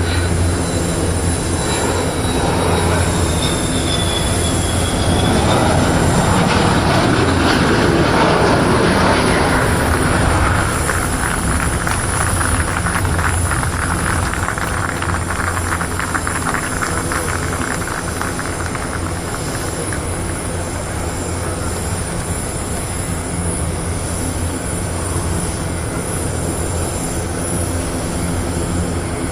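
Dassault Rafale fighter's twin jet engines on landing approach: a loud jet rumble with a high whine that drops in pitch a few seconds in, swelling to its loudest near the middle, then settling into a steady, rougher crackling rumble.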